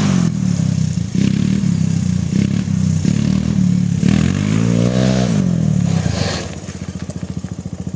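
Four-wheeler (ATV) engine running hard and revving up and back down. About six and a half seconds in it drops to low revs with a rapid pulsing beat.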